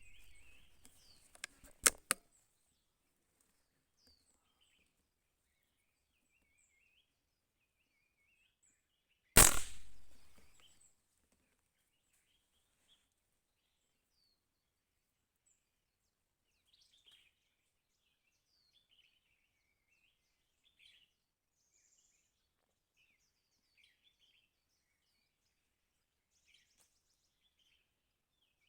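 A single loud hunting shot fired at birds about nine seconds in, dying away over a second or so. A few sharp clicks come near the start, and small birds chirp faintly throughout.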